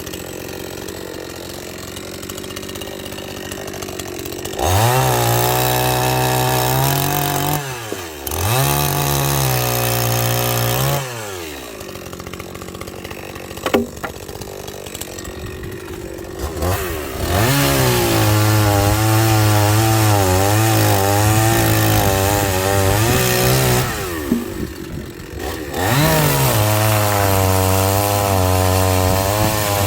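Two-stroke chainsaw revving from idle up to full throttle four times and dropping back to idle between, the longer bursts wavering in pitch as the chain cuts into firewood logs.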